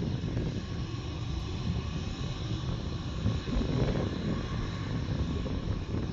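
Jet airliner engines rumbling steadily, with a faint high whine above the low roar.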